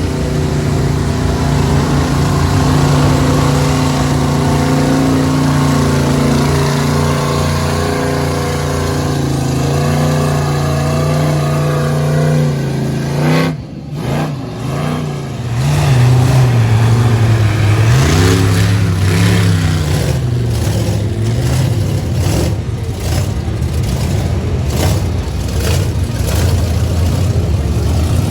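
Big off-road truck engine running loud at a steady pitch, then, after a brief break about halfway through, revving up and down a few times before settling back to a steady run.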